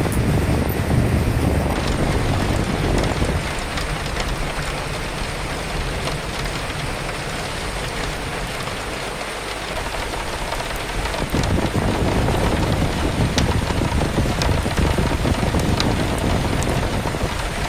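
Steady rain with gusting wind, a low rumble that eases for several seconds in the middle and builds again, with scattered drip ticks on top.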